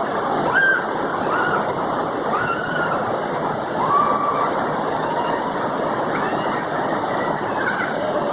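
Steady rush of flowing stream water, an even noise with no break.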